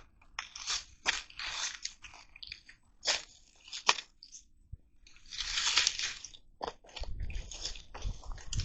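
Irregular crunching and snapping of dry sticks and leaves, a string of sharp cracks with longer rustles, the loudest about two thirds of the way in; a low rumble comes in near the end.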